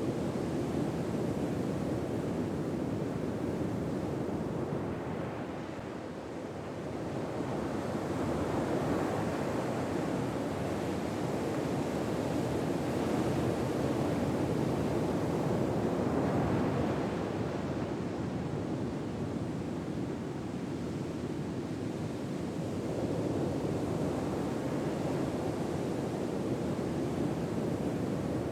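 Gentle ocean waves washing in as a steady rush of surf that slowly swells and eases every several seconds.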